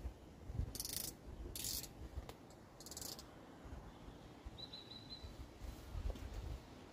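Faint lakeside ambience: wind rumbling on the microphone, three short hissing rustles in the first three seconds, and a brief high trill from a small bird about four and a half seconds in.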